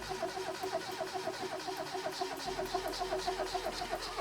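1990 Mazda Miata's 1.6-litre four-cylinder engine being cranked by the starter in an even, fast rhythm without firing. It is a no-start: fuel reaches the rail but not the injectors, because the feed and return lines at the fuel rail are swapped.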